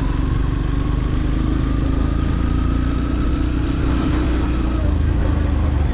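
Motorcycle engine running steadily while the bike is ridden at an even pace, its pitch drifting only slightly.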